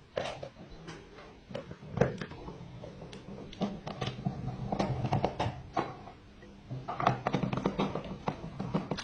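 Irregular clicks and taps, like small hard parts being handled or tapped, over a low hum that comes and goes.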